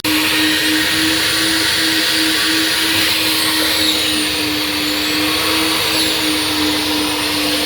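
Self-serve coin-operated car-wash vacuum running steadily while a car's interior is vacuumed: a constant hum over a loud rush of sucked air.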